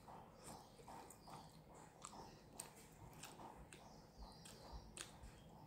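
Faint close-up chewing of a mouthful of food, in an even rhythm of about two to three chews a second, with small wet mouth clicks.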